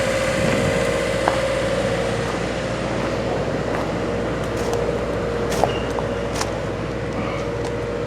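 Steady engine running at idle: an even low rumble with a constant droning hum, with a few faint clicks here and there.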